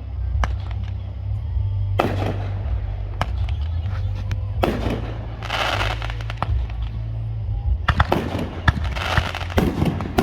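Fireworks bursting overhead: sharp bangs a second or two apart, then a quick run of crackling pops near the end.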